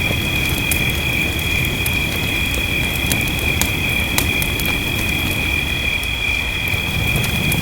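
Fireplace crackling: scattered sharp pops and snaps over a steady low rumble, with a constant high insect-like chorus of two steady tones running underneath.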